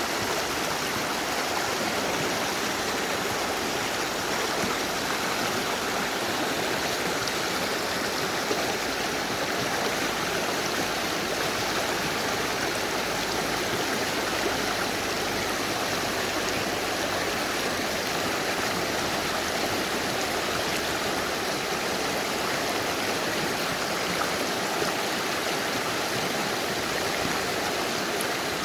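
Mountain river rushing steadily over rocks: an even, continuous wash of water with no breaks.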